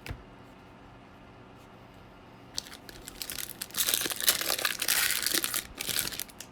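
Plastic-foil wrapper of a Bowman baseball card pack crinkling as it is torn open and crumpled, starting about two and a half seconds in and stopping near the end, with a single knock at the very start.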